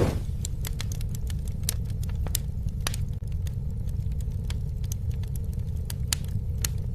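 Campfire burning, crackling with irregular sharp pops over a steady low rumble.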